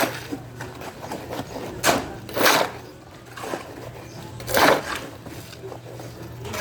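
Several loud knocks at uneven intervals, a second or two apart, over a steady low hum that stops near the end.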